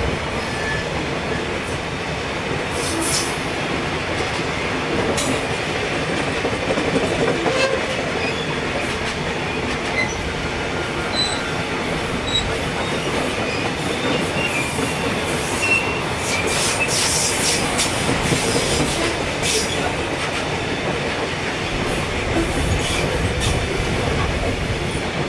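Heavily loaded coal hopper wagons rolling past at close range: a steady rumble and clatter of steel wheels on the rails. Brief high screeches from the wheels come about three seconds in and again in a cluster past the middle.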